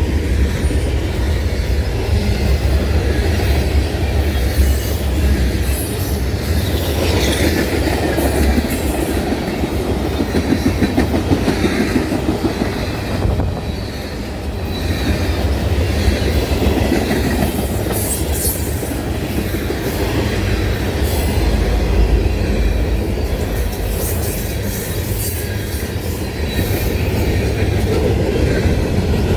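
A train's railroad cars rolling past close by, wheels clattering steadily over the rails, with occasional wheel squeal.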